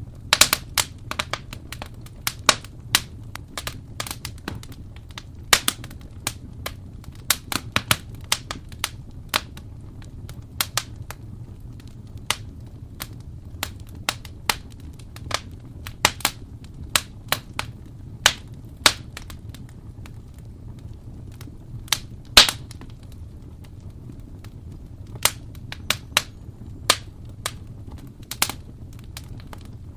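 Wood fire in a fireplace crackling and popping: irregular sharp snaps over a steady low rumble of the burning fire.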